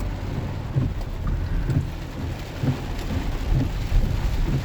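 Heavy rain pelting a truck's roof and windshield, heard from inside the cab over the low rumble of the truck driving.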